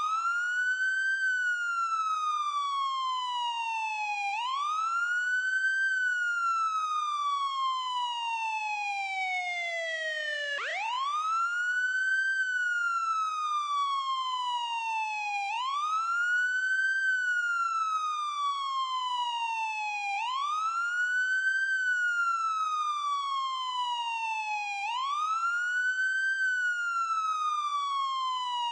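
Ambulance siren wailing in a steady wail pattern: a quick rise in pitch, then a slow fall, repeating about every four and a half seconds. One cycle near the middle falls lower and lasts longer before sweeping sharply back up.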